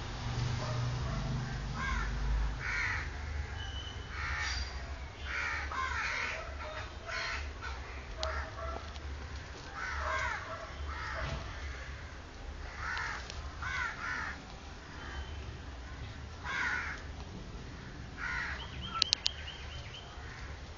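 Two-day-old Pomeranian-cross puppies squeaking and whimpering in short, high, bending cries, one after another, with a few sharp clicks near the end.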